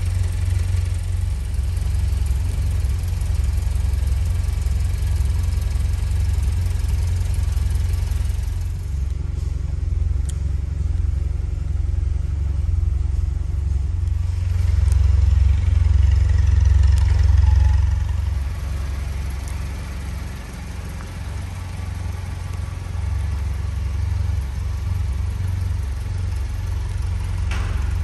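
The Mini 1000's 998 cc A-series four-cylinder engine idling steadily, a low rumble that grows louder for a few seconds past the middle and then eases off.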